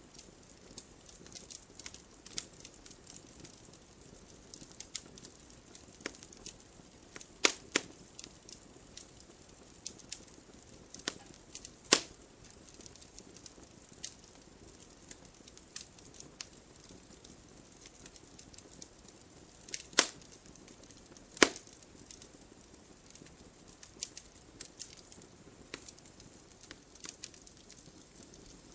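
Wood fire crackling: quick irregular snaps and ticks over a faint hiss, with a few louder pops at about 7, 12, 20 and 21 seconds in.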